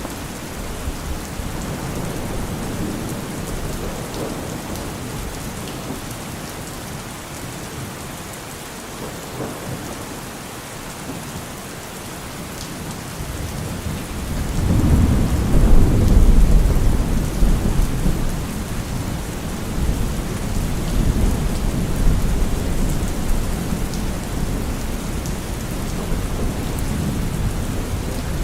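Steady rain falling through the trees. About halfway through, a deep rumble of thunder swells up, peaks briefly, then rolls on more quietly.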